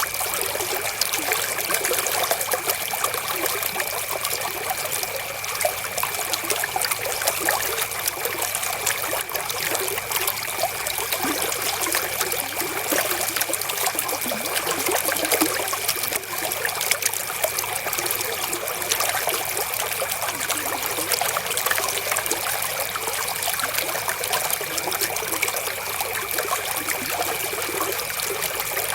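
River water flowing and trickling, a steady dense splashing rush with little deep rumble.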